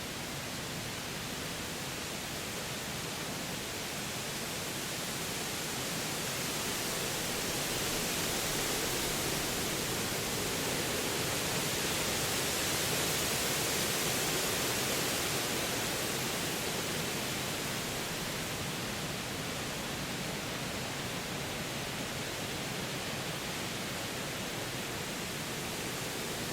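Wind rushing through forest trees as a steady hiss, building to a stronger gust about halfway through and then easing off.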